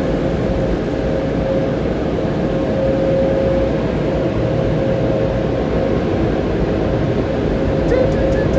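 Automatic car wash dryer blowers running steadily, heard from inside the vehicle's cabin: a continuous rushing air noise with a steady hum.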